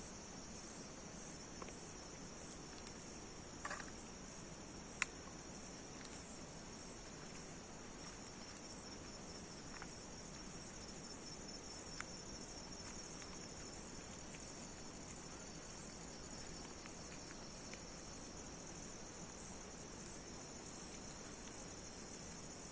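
Crickets chirring in a steady high trill, with a few short sharp clicks, the loudest about five seconds in and another about twelve seconds in.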